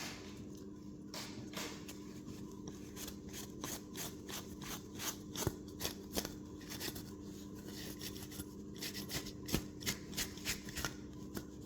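A blade scraping in short, quick strokes around a speaker frame, clearing off a leftover ring of old foam-surround adhesive; the strokes come irregularly, a few a second, and grow denser in the second half. A faint steady hum runs underneath.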